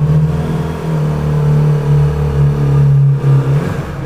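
2009 Yamaha R6's 599 cc inline-four engine running at a steady pitch, with a brief dip in engine note about three and a half seconds in.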